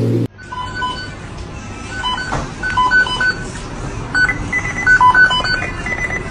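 A run of short electronic beeps at a few different pitches, some sounding two at a time like keypad tones, over a steady background hiss.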